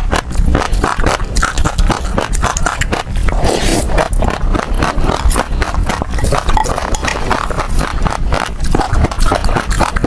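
Passion fruit seeds being chewed and crunched close to the microphone: a dense, unbroken stream of small crisp cracks and pops.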